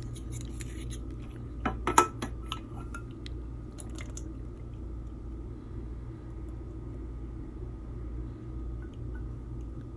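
A few sharp clinks of a utensil against a cooking pot, the loudest about two seconds in and one more near four seconds, over a steady low hum.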